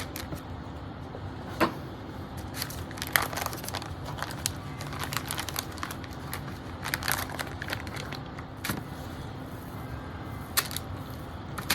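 Raw bacon slices being handled and laid out on parchment paper: scattered crinkles of the paper and soft, irregular clicks and taps.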